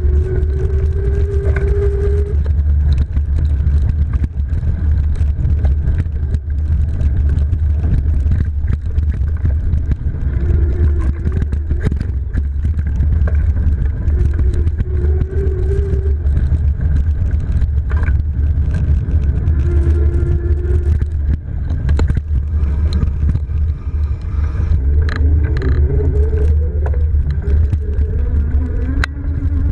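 A steady low rumble of wind and riding noise from a fat-tire electric bike on a dirt trail. Scattered clicks and knocks run through it, and now and then a short whine rises and falls, typical of the rear hub motor pulling under power.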